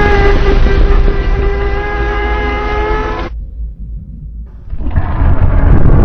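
Custom-made giant-monster roar sound effect: a loud, drawn-out roar at a steady pitch that cuts off abruptly about three seconds in, leaving a low rumble, then a second, rougher roar rising near the end.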